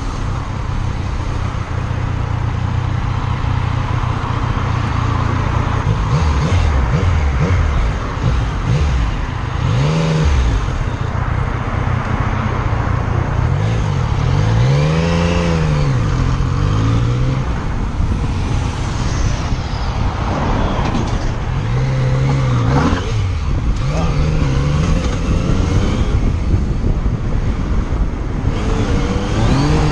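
Car engine and road noise while driving, the engine's pitch rising and falling several times as it speeds up and slows.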